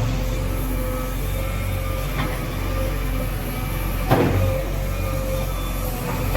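JCB 3DX backhoe loader's diesel engine running steadily under work, with a knock about two seconds in and a louder crash about four seconds in, as of the machine striking or dropping building material.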